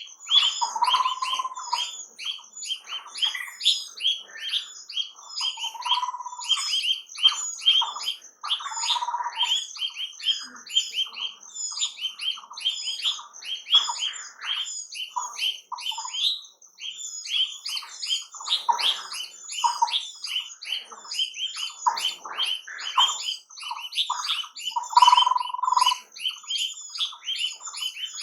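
Birds chirping in a dense, continuous chorus of quick high chirps, several a second. A lower, fuller call breaks in every few seconds.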